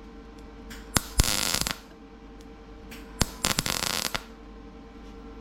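Two short bursts of electric arc welding on thin car-body sheet metal, each a crackling sizzle of about half a second that starts with a sharp click, over a faint steady hum. Here the welding burns through the metal and opens a huge hole instead of filling it.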